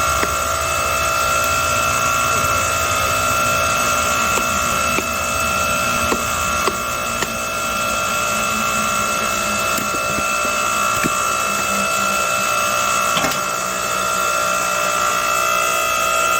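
8-ton hydraulic log splitter running with a steady whine from its motor and pump, with scattered small cracks and snaps as wood is split.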